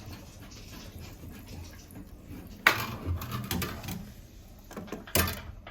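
Two sharp knocks about two and a half seconds apart, the first followed by a second of smaller clatter: tools and fittings being handled while a bathroom faucet is taken off and swapped.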